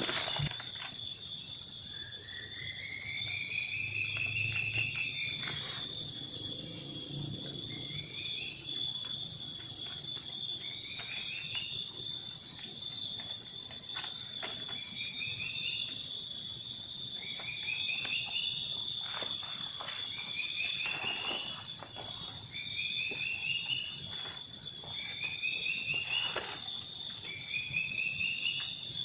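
Tropical forest ambience: a steady, high-pitched drone of insects, with a short rising call from a forest animal repeated about every two to three seconds. The first call, a few seconds in, is longer and rises then drops.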